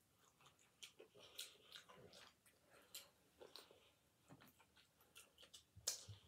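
Faint mouth sounds of someone eating fried fish with their fingers: irregular soft chewing smacks and clicks, the loudest just before the end.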